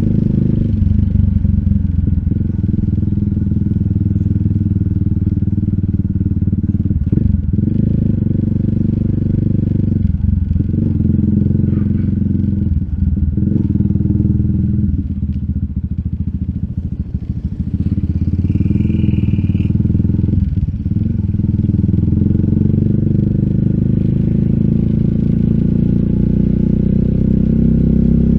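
RUSI Classic 250Fi's single-cylinder engine running through an Eli's Muffler full exhaust with a bullet slip-on pipe and dB killer, under way on the road. The exhaust note drops briefly about four times before coming back.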